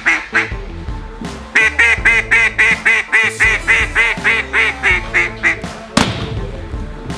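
A fast run of mallard-style quacks, about four a second, over background music with a steady low line. A single sharp crack sounds near the end.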